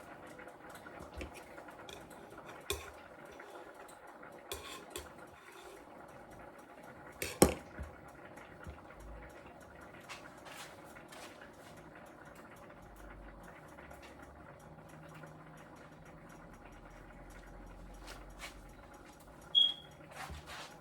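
Kitchen utensils and cookware clinking and knocking during cooking: scattered light clicks, a loud clank about seven seconds in, and a short ringing clink near the end.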